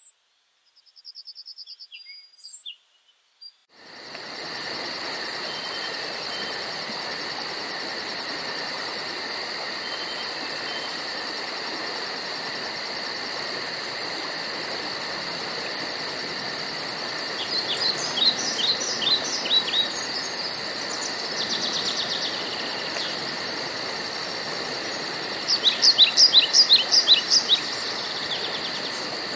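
Woodland ambience of birds and insects. For the first few seconds a few isolated bird chirps sound over near silence. About four seconds in, a steady insect drone with a fast high trilling and a constant hiss starts abruptly. Over it, birds call in quick runs of short falling notes, twice: once in the middle and louder near the end.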